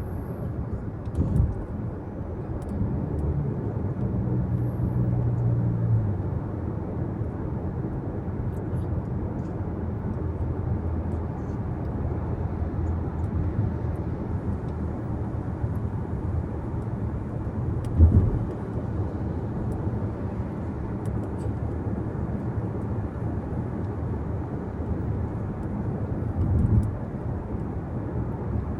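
Steady road and engine rumble heard inside the cabin of a moving car, with a hum that swells for a few seconds near the start. A few thumps, likely the tyres hitting bumps or road joints, come through; the loudest is about eighteen seconds in.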